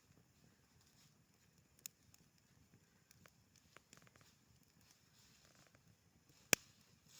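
Campfire burning faintly, with scattered small crackles and a single sharp pop a little before the end, the loudest sound.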